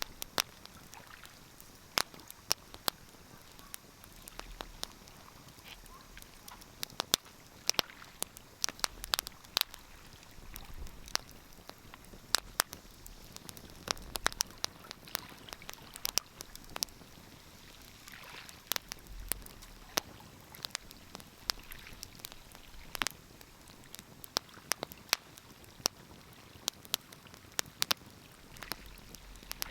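Wood fire crackling: irregular sharp pops and snaps, sometimes several in quick succession, over a faint steady hiss.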